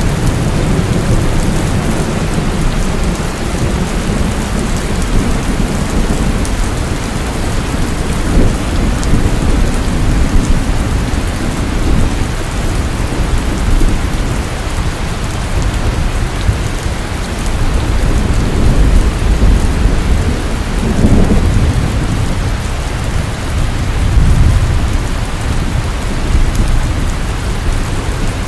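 Steady, heavy rain falling, with deep low rumbles that swell and fade a few times.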